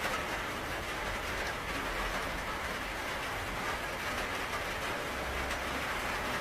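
Steady rain: an even, continuous hiss of falling rain, with a faint low rumble underneath that swells briefly a few times.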